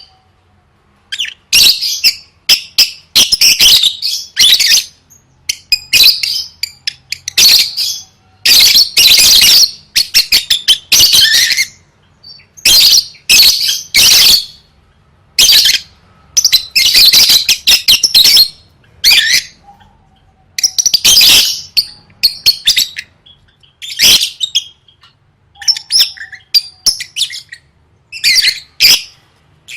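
Lovebird chattering in loud, shrill bursts of rapid high-pitched chirps, each lasting up to about two seconds with short pauses between.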